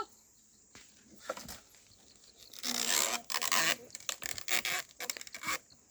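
Irregular rustling and scraping in a string of short bursts, loudest about three seconds in, after a brief high call at the very start.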